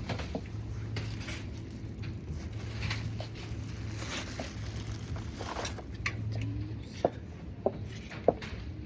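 Heeled boots clicking with each step, a sharp regular click about every 0.6 seconds in the last couple of seconds, over a steady low hum.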